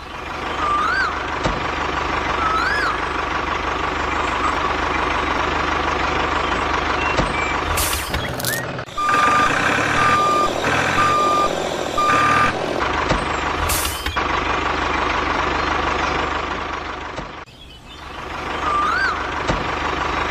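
Truck sound effect: an engine running with a reversing alarm beeping four times, about a second apart, midway through, and short hissing bursts before and after the beeps.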